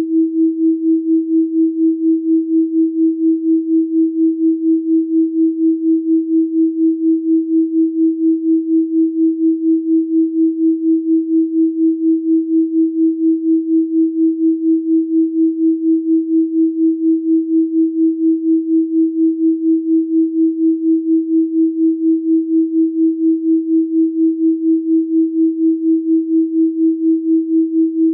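A steady electronic sine tone at 324 Hz, a single pure pitch that pulses evenly about three times a second.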